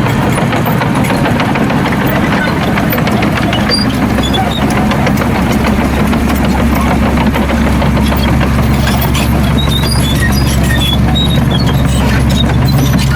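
Heavy diesel earthmoving engine running steadily, with scattered small clicks and rattles over the low engine hum.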